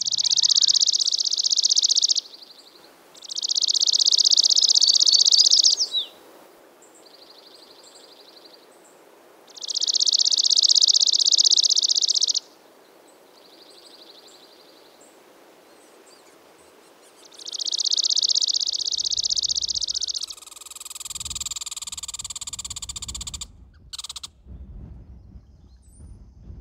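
High, rapid trills, each lasting about two to three seconds and repeating every few seconds, with fainter, shorter trills in between, typical of a singing bird. Near the end a different sound with a low rumble takes over.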